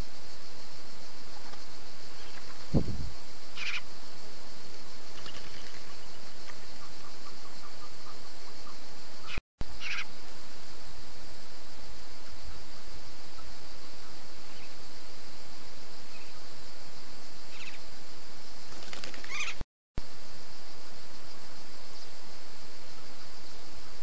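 Steady high hiss, with a few brief faint bird chirps and a soft low thud about three seconds in. The sound drops out briefly twice where separate camera recordings join.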